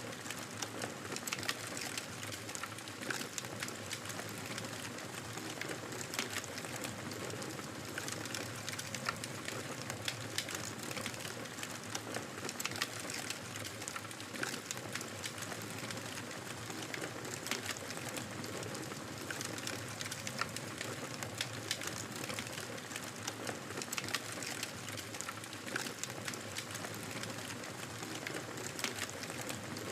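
Wood fire crackling in a fireplace: a steady rushing hiss with frequent, irregular sharp pops and snaps.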